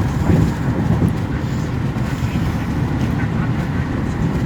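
Steady low road and engine rumble heard inside a moving vehicle's cabin.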